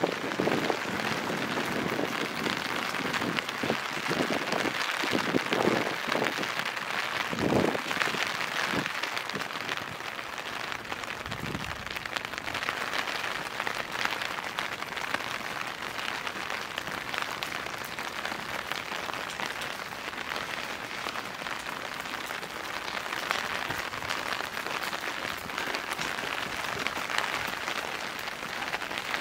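Steady rain falling and pattering on surfaces, with louder close hits of drops during the first ten seconds or so.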